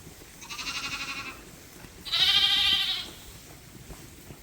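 Lambs bleating: two separate calls, a shorter one about half a second in and a louder, longer one about two seconds in, each with a quavering wobble. They are lambs crying for their mothers, wanting to suckle.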